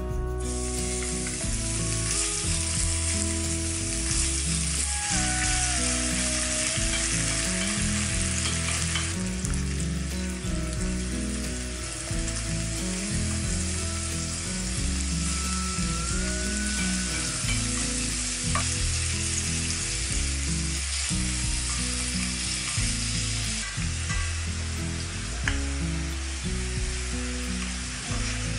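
Bacon and shrimp frying in oil in a stainless steel frying pan, with a steady sizzle throughout, and stirring in the pan.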